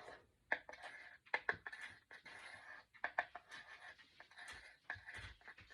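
Small clicks, taps and scraping rustles of hands working a small glue bottle and little wooden craft pieces on a tabletop, as glue is squeezed onto a piece.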